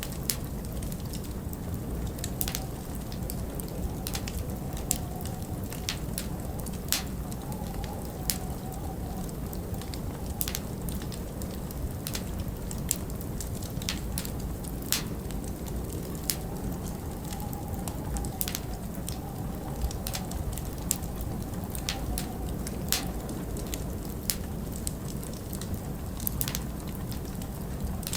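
Wood fire in a fireplace crackling, with sharp irregular pops about once a second over a steady low rumble of winter wind.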